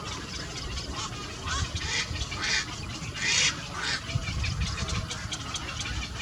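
Small yellow birds calling: a run of five or so loud, noisy calls between about a second and a half and four seconds in, amid many short chirps and ticks.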